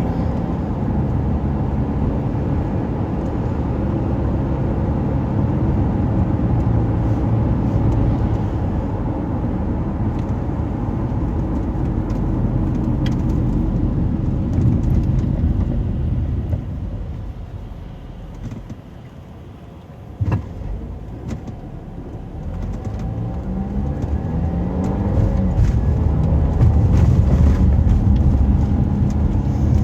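Car road and engine noise, a steady low rumble. It fades as the car slows almost to a stop about two-thirds of the way through, with a single click, then builds again as the car pulls away and picks up speed.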